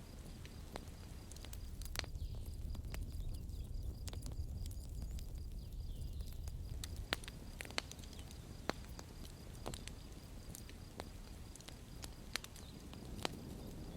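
Campfire crackling: sharp pops and snaps at irregular intervals, about one a second, over a low, steady rumble of the burning fire.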